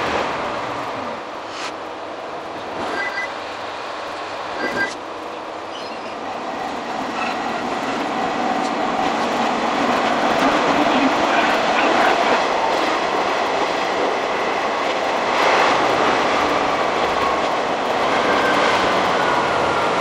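Diesel railcar running on the Kanto Railway Joso Line, heard from inside: rail and wheel noise with a pitched engine or wheel whine. A few light clicks come early, and the noise grows louder from about six seconds in; near the end a whine falls in pitch.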